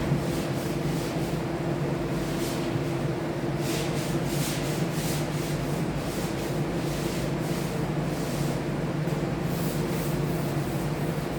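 Final sanding before the top coat: repeated scratchy sandpaper strokes over a steady machine hum.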